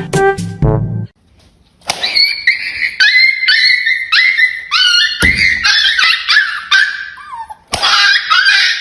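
A dog whining and yipping in a long run of high-pitched calls that bend up and down in pitch, starting about two seconds in, after a second of brass music.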